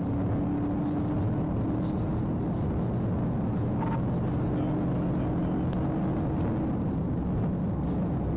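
Car running at high speed in a pursuit: a steady engine drone over road and wind noise.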